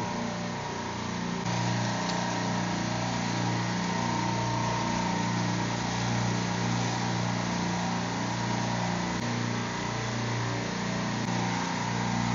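Steady drone of running supermarket refrigeration rack compressors: an even, constant hum with a broad hiss over it.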